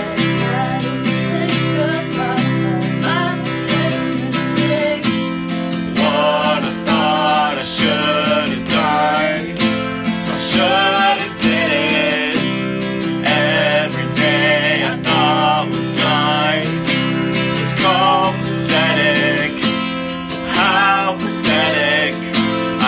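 Acoustic guitar strummed steadily, with a voice singing over it, the singing strongest from about six seconds in.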